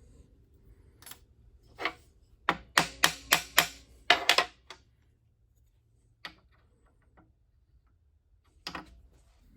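Sharp metallic knocks and clinks of steel parts being tapped and set into position: a single knock, then a quick run of about eight in a couple of seconds, then two more single knocks, some with a short ring.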